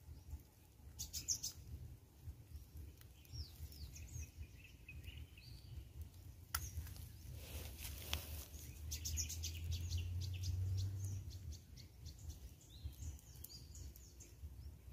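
Birds chirping in short, high calls and quick whistled glides, with a rapid run of notes past the middle. Underneath is a low rumble, with a couple of sharp clicks.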